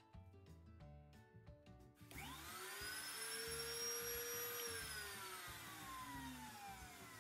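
A 50-year-old Bosch POP router, mounted under a router table, is switched on about two seconds in and rises in pitch as it spins up. It runs at full speed for about two seconds, then is switched off and winds down with a falling pitch. Background music plays throughout.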